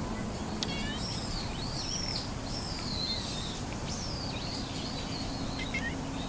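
Small birds singing: a string of high whistled notes that rise and fall, with a quick trill about half a second in, over steady outdoor background noise and a faint low hum.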